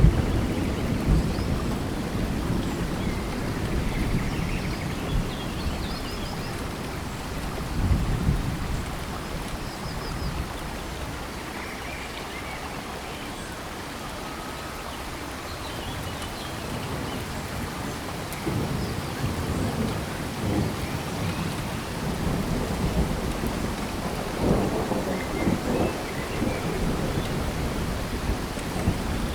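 Steady rain falling in a tropical forest, with low rolling thunder that eases off around the middle and swells again later. Faint high chirps are heard above the rain.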